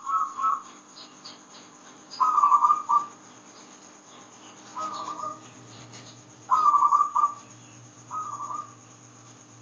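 Zebra dove (perkutut, Geopelia striata) cooing in short trilled phrases, four of them under a second each after the tail of a previous one, the one about five seconds in softer. A faint low hum comes in during the second half.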